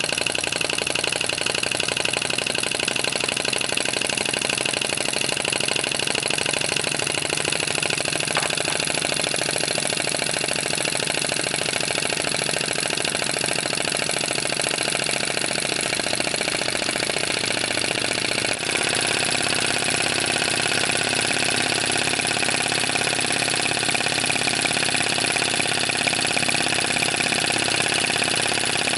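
Bengs flame licker (vacuum) model engine running steadily under the load of a small generator, with a fast, even beat. About two thirds through the sound changes abruptly and turns brighter.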